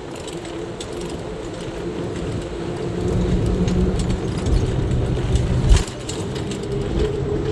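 A road vehicle travelling, its engine and road rumble swelling louder a few seconds in, with light rattling clicks and one sharp thump near the end of the louder stretch.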